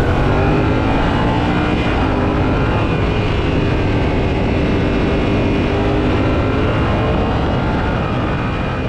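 Yamaha Ténéré 700's parallel-twin engine running steadily as the adventure bike is ridden along a winding road.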